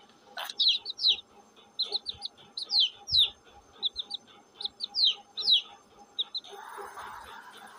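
Domestic chicken chick peeping: a run of short, high, downward-sliding peeps, coming in little clusters. About six and a half seconds in a steady hiss comes in.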